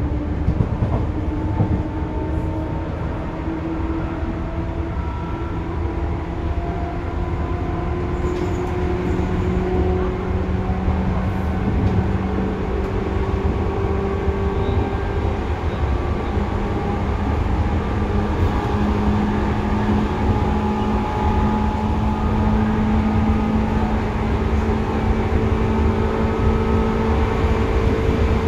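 Seibu 2000 series electric train running, a dense low rumble under several whining motor and gear tones that slowly shift in pitch, growing slightly louder toward the end.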